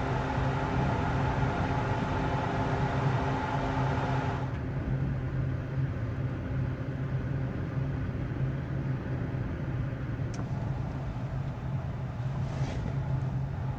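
Steady low vehicle rumble, with a wider hiss over it that cuts off suddenly about four and a half seconds in, and a single sharp click later on.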